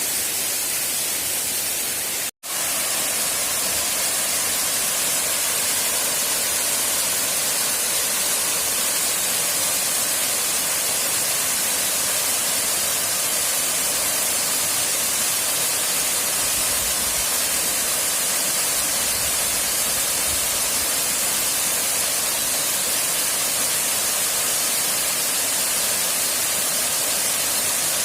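Steady rush of a waterfall, a dense, even hiss that cuts out for an instant about two seconds in.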